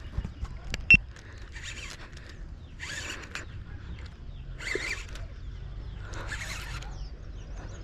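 Baitcasting reel being cranked in short spurts, a rasping whir every second or so as a lure is retrieved, with a sharp click about a second in.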